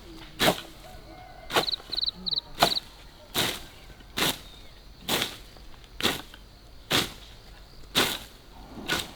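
A blade swung by hand through grass and brush, slashing it down in regular swishing strokes, about one a second, roughly ten in all.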